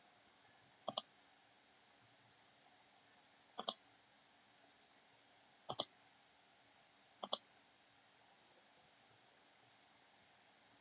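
Computer mouse double-clicking: four sharp paired clicks a couple of seconds apart, then a fainter one near the end, over a low room hum.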